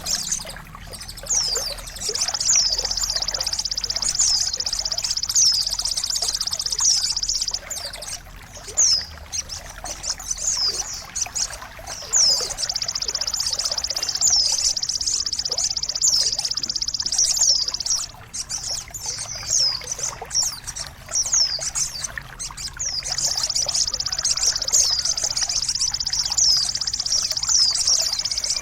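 Songbird song used for song tutoring: three long, rapid high trills of about five seconds each, with short falling whistled notes between them. A trickle of running water sounds underneath.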